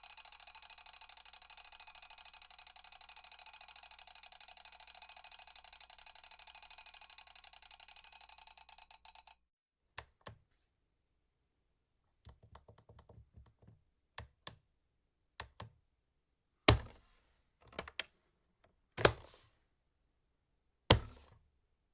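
An alarm bell rings with a rapid, continuous metallic ringing for about nine seconds and cuts off suddenly. Then comes a series of scattered clicks and a short rattle, followed by a few sharp, loud knocks near the end.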